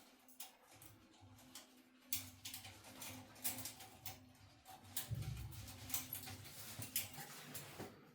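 Scattered light clicks and knocks of bathtub-cleaning items being handled, with a fuller low thump about five seconds in, over a faint steady hum.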